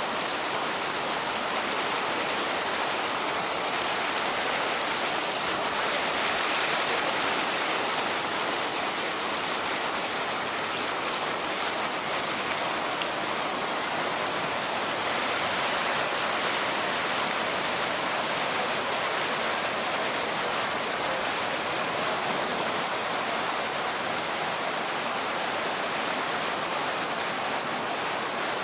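Floodwater rushing in a steady, unbroken stream of water noise.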